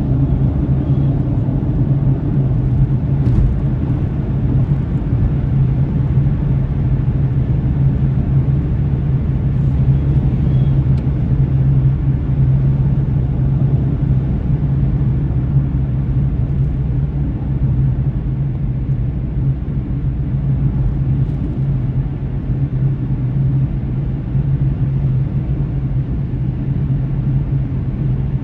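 Car driving along, heard from inside the cabin: a steady low rumble of engine and road noise that holds the same level throughout.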